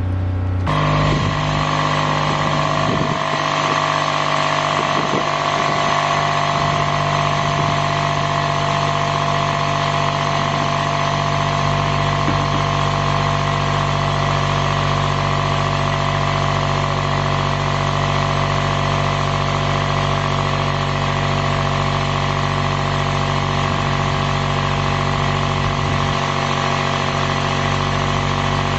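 A motor running steadily: an even, unbroken machine drone with a strong low hum and several steady tones.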